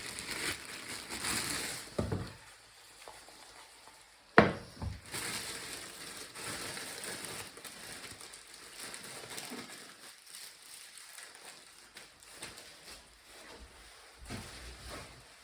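Food sizzling in a pan with utensil and cookware handling, and one sharp knock about four seconds in.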